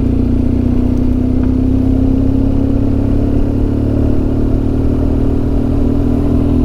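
Motorcycle engine running steadily under way, its pitch creeping slightly upward as it picks up speed.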